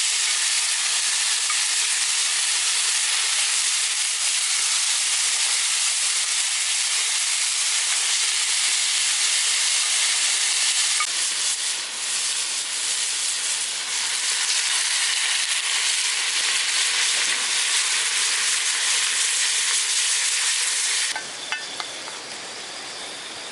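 Vegetables cooking in a pan over a campfire, sizzling with a loud, steady hiss that drops off suddenly near the end.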